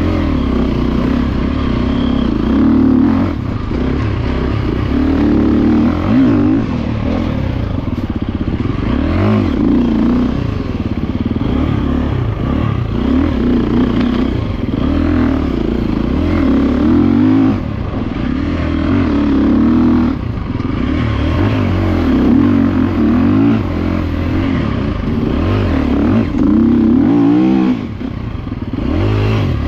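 GasGas EC 350F's single-cylinder four-stroke engine revving up and down over and over as the bike is ridden hard over a dirt enduro track. The engine note drops away briefly near the end, then picks up again.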